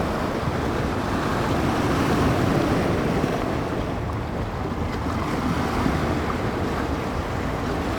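Bay waves washing in and breaking on the shore, with gusty wind buffeting the microphone, a steady wash of noise that swells slightly a couple of seconds in.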